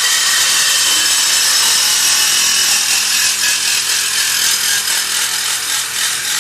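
A power cutting tool running steadily as it cuts through a car's exhaust pipe, a loud, hissy cutting noise that eases off slightly near the end.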